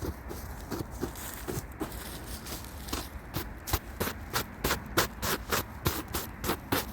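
Wind rumbling on the microphone, with a run of short scraping knocks that settle into about three a second from about three seconds in.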